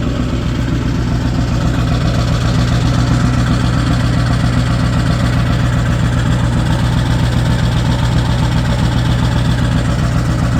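Ford 7.3L Powerstroke V8 turbodiesel idling steadily shortly after a cold start, heard from the exhaust at the rear of the truck. It runs evenly, less angry than it usually sounds on a cold start.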